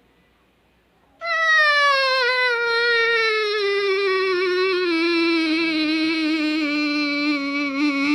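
A brief hush, then a long, wavering, cat-like wail that slides slowly down in pitch and levels off, played as a sound meant to make a dog tilt its head.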